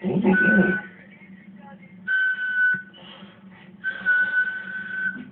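Three long whistled notes, all at the same high pitch, each with a breathy hiss around it. The last note is the longest. A short, rough louder burst comes in the first second.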